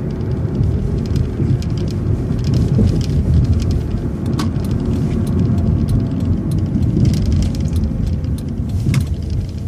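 Inside a transit bus: steady engine and cabin rumble with a faint steady hum, and two sharp rattling knocks, about four seconds in and near the end.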